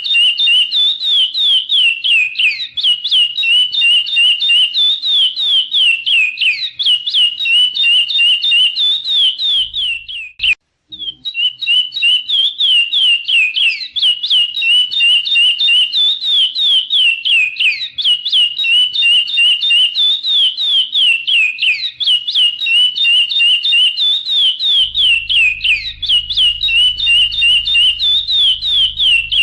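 Chestnut-bellied seed finch (curió) singing a fast, unbroken whistled song of rapid repeated notes and down-slurred sweeps. It breaks off for under a second about ten seconds in, then resumes.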